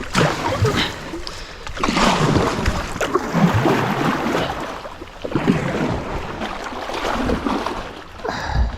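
Kayak paddle strokes splashing water, a stroke about every second and a half to two seconds, as a sit-on-top kayak is paddled down a shallow river.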